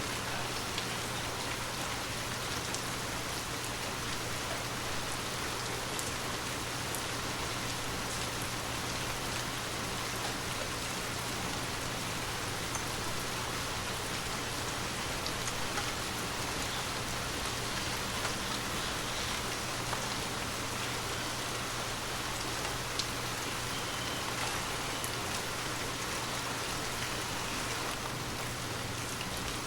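Steady gentle rainfall with scattered individual drops ticking on a surface.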